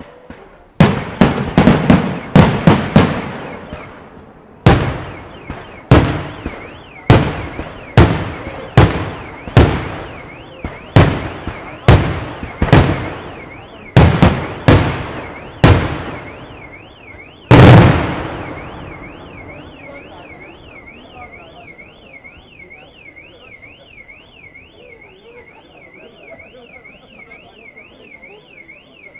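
Fireworks bursting in the sky: a quick series of sharp bangs, about one a second, ending about 17 seconds in with one loudest, longer bang. A car alarm's warbling siren sounds through the bangs and keeps going after they stop.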